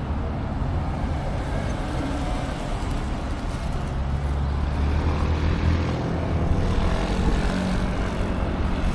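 Motor vehicle engine noise: a steady low rumble that swells about four seconds in, with an engine's pitch rising near the end.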